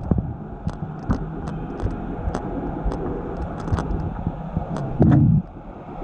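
Small pit bike engines running, a steady low drone, with scattered sharp clicks and knocks of gear and bike parts being handled. A short louder low burst comes about five seconds in.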